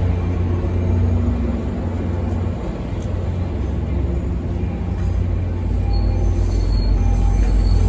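MBTA commuter rail train's passenger coaches rolling past at close range, a steady low rumble of wheels on rail. Faint thin squeals from the wheels join in about five seconds in.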